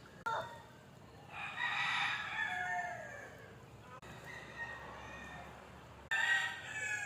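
A rooster crowing: one long crow starting a little over a second in and another near the end.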